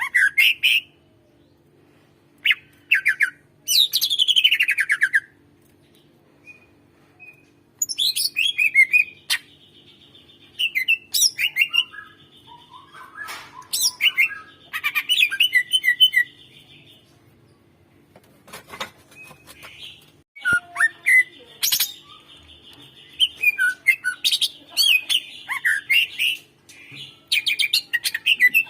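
Cucak ijo (green leafbird) in full song: phrases of rapid sharp chirps, a whistled note sweeping down in pitch about four seconds in, and several long buzzy trills, with short pauses between phrases. A faint steady hum lies underneath.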